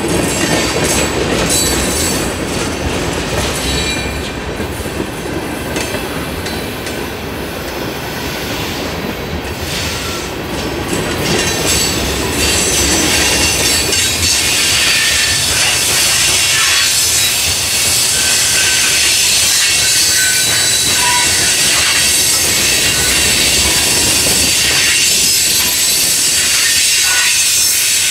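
Railroad cars rolling past on the rails, wheels running over the track. About twelve seconds in the sound gets louder and higher, a steady high hiss taking over from the lower rumble.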